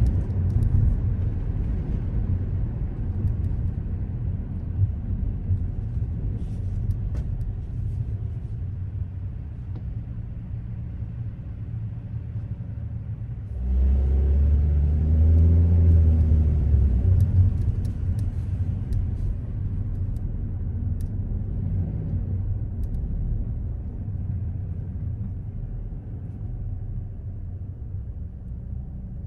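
A car driving on city streets: a steady low rumble of engine and road noise. About halfway through it suddenly grows louder with a wavering engine pitch for a few seconds, then slowly fades.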